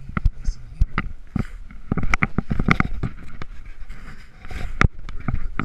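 Irregular knocks and clicks over a low rumble.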